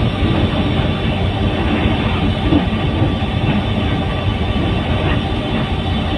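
Train running along the track, a steady low rumble of wheels and running gear heard from on board.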